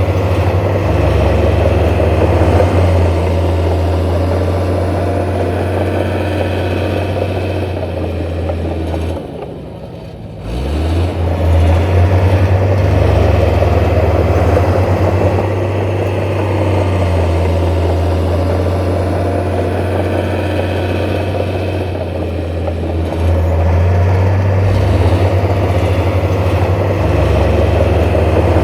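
Heavy diesel engine of earth-moving machinery running steadily with a low hum. It drops away about nine seconds in and picks back up about a second later.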